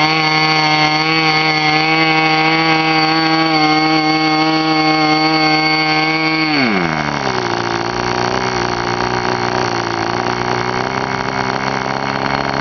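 K&B Fuji .05 model airplane glow engine with muffler, spinning its propeller, running steadily at high speed. About six and a half seconds in, it is throttled back: the pitch drops sharply and it settles into a very low, steady idle.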